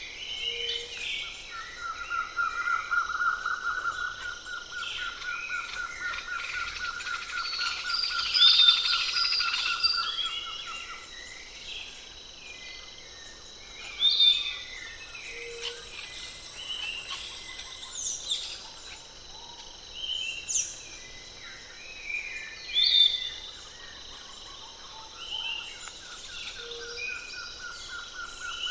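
Forest birds calling with many short chirps and whistles. Under them runs a steady pulsing trill that stops about eleven seconds in and starts again near the end. A high, thin, steady tone sounds for a few seconds in the middle.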